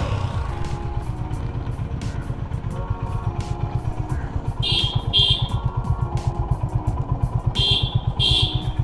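Honda H'ness CB350's single-cylinder engine running steadily with an even beat of low firing pulses. Two pairs of short, high-pitched beeps sound over it, about halfway through and near the end.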